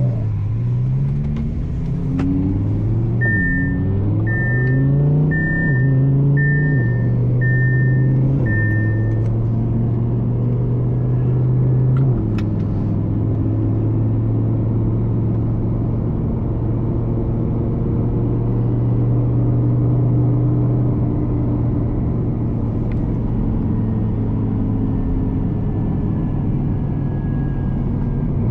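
Twin-turbo Audi R8's V10 engine pulling through several gear changes, revs climbing and dropping in the first several seconds, then holding steady at cruise and easing lower after about twenty seconds. A high electronic beep sounds six times in quick succession early on.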